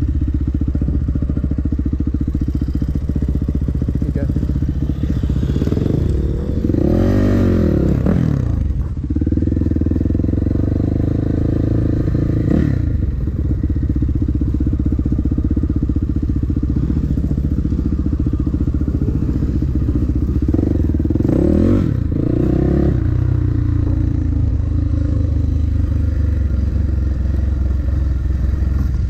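Dirt bike engine running steadily while riding, revving up and back down twice: once about seven seconds in and again a little past twenty seconds.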